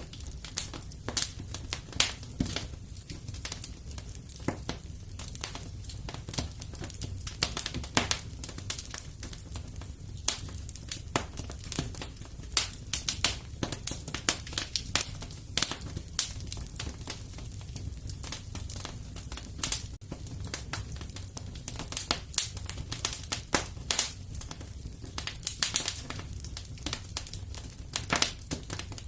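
Wood fire crackling in a fireplace: irregular sharp pops and snaps, many a second and some louder than others, over a low steady rumble of the burning.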